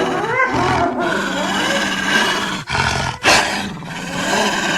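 Chupacabra creature sound effect, layered from big-cat and wolf recordings: a run of loud roars and snarls whose pitch wavers and slides. Two short breaks fall about halfway through, and the loudest roar comes just after them.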